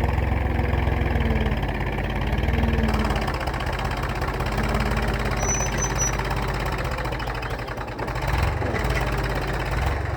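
Massey Ferguson tractor's diesel engine running steadily while ploughing, with a brief dip in level about eight seconds in.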